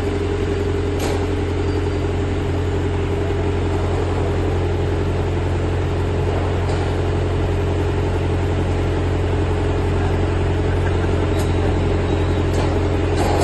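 Diesel generator engine running steadily: a constant low hum with a steady higher drone above it.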